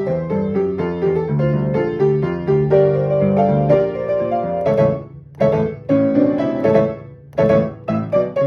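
Piano playing a fast, rhythmic piece with rapid repeated chords and bass notes. The playing breaks off briefly twice, about five and seven seconds in, then comes straight back in.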